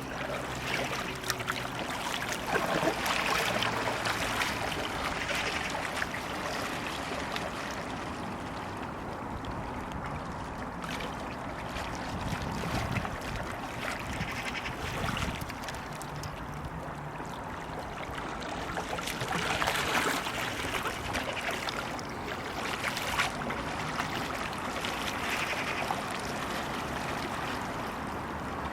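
Kayak paddle blade dipping and pulling through flat water, with splashing and trickling that swells and fades irregularly as strokes are taken.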